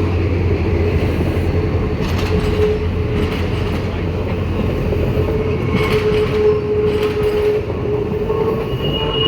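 Passenger train rolling slowly around a curve at a rail junction: wheels squeal with a steady high tone that comes and goes, over a low rumble and a few clacks from the rail joints. A second, higher-pitched squeal starts near the end.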